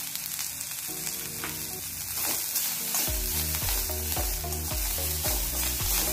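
Chopped coriander and green chilli sizzling in hot oil in a steel kadhai while a steel spoon stirs and scrapes against the pan, under quiet background music.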